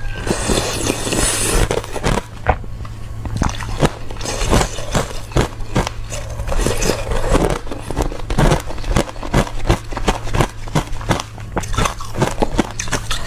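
A person biting and chewing crunchy shaped ice close to the microphone: rapid, irregular sharp crunches and cracks, over a steady low hum.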